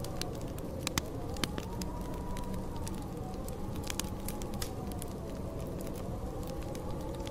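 Wood fire crackling, with irregular sharp pops, over the steady low rumble of a snowstorm wind. A thin howl of the wind slowly rises and falls in pitch.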